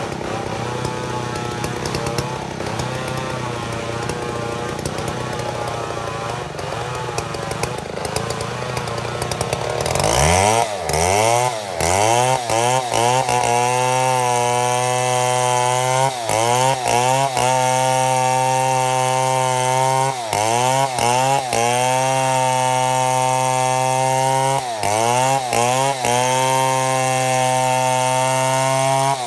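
Two-stroke chainsaw milling mahogany, running at lower, wavering revs for about the first third, then revving up sharply to full throttle and holding there. The revs dip briefly and recover several times.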